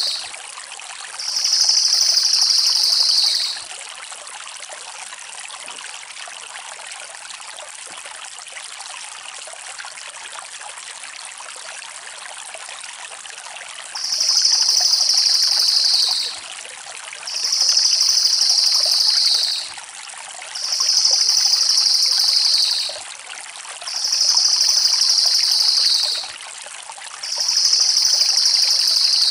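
A cililin (crested jay) giving fast, high rolling trills of about two seconds each that dip slightly in pitch at the end. Two come early, then a gap of about ten seconds, then five more in steady succession about every three seconds. Beneath them runs a steady rushing noise like a stream.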